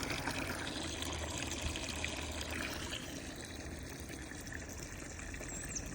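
Water running and trickling steadily as the pigs' water container is filled.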